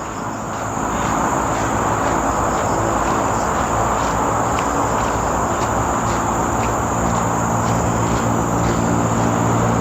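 Steady road traffic noise from a nearby main road, swelling over the first second and holding, with a low engine hum growing stronger near the end. A continuous high-pitched insect drone runs over it.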